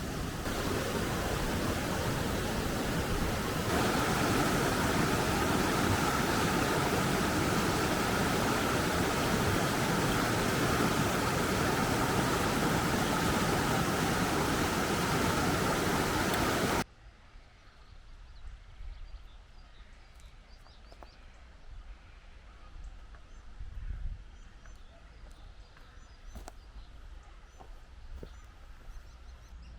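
Heavy rain, a steady dense hiss that gets louder about four seconds in and cuts off suddenly a little past halfway. After it, quiet forest background with faint scattered ticks and chirps.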